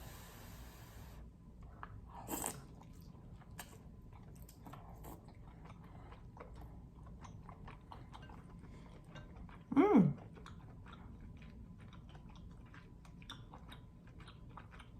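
Close-up mouth sounds of someone eating king crab in garlic butter sauce: wet chewing with many small clicks and a few crunches. About ten seconds in comes a short falling "mm" of enjoyment.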